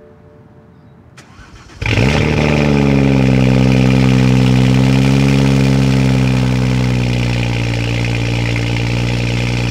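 BMW 135i's turbocharged straight-six starting up about two seconds in, heard at its twin exhaust tips: it catches at once, runs at a raised idle for a few seconds, then settles to a slightly lower steady idle.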